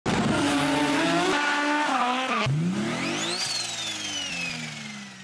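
Racing car engine revving: a wavering note for about two and a half seconds, then a sharp break into a quick climb in pitch and a long falling note that fades out near the end.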